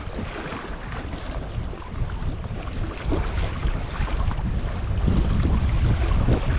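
Strong wind buffeting the microphone, an uneven heavy rumble that gets louder near the end.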